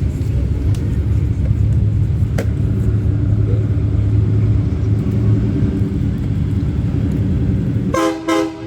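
A truck engine running with a deep, steady exhaust rumble, then a vehicle horn honking once, briefly, near the end as the rumble drops away.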